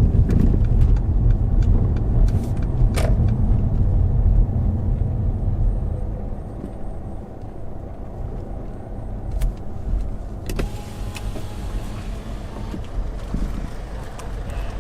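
Car engine running with a steady low rumble, loud for the first few seconds and settling lower about halfway through, with a few light clicks.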